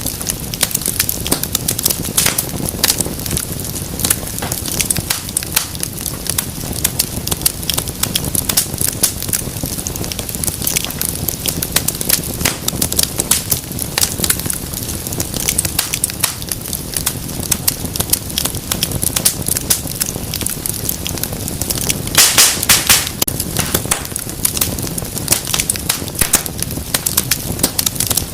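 Wood fire crackling steadily, with dense sharp pops over a low rumble of the flames; late on, a brief flurry of louder pops.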